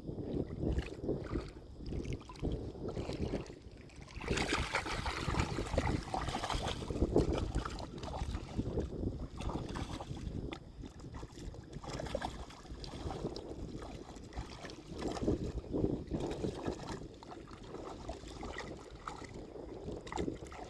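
Shallow sea water sloshing and splashing as a dog wades and paws after a crab, with wind buffeting the microphone.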